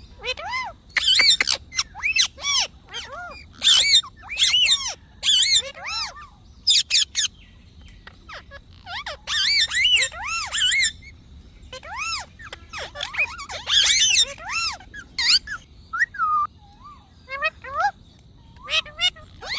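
Pet parrot calling and chattering in repeated high-pitched bursts, with short pauses between clusters.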